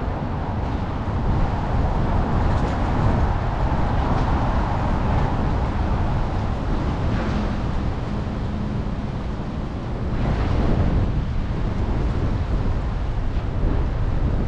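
City traffic heard from a moving bicycle, with steady rumbling wind on the microphone; a vehicle swells past about ten seconds in.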